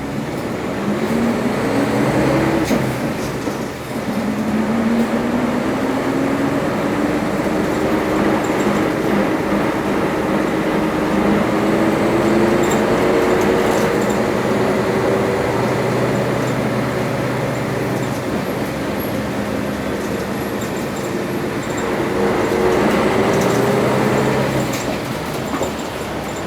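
Isuzu U-LV318L route bus engine and running noise heard inside the cabin as the bus pulls away and accelerates. The engine note climbs, drops once about four seconds in at a gear change, then climbs slowly and at length before easing off near the end.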